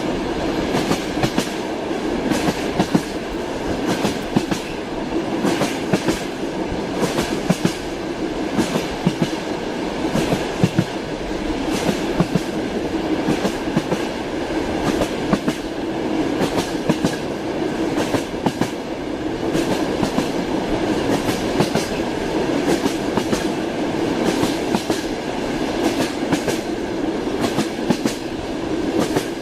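A moving train's wheels clattering over the rails: a steady running rumble broken by frequent sharp clicks of clickety-clack.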